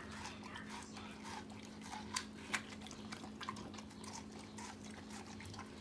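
A golden retriever chewing and biting into watermelon: wet, juicy crunching and smacking in small bites, with two sharper crunches a little past two seconds in, over a steady low hum.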